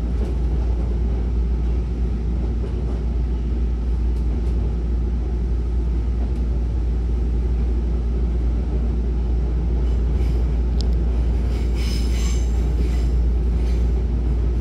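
Hankyu 9300-series electric train running, heard from inside the car by the doors: a steady low rumble of wheels on track, with a brief higher wheel squeal near the end.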